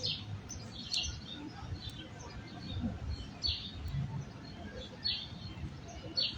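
A bird chirping: short, high chirps repeated roughly once a second, over a low rumble of outdoor background noise.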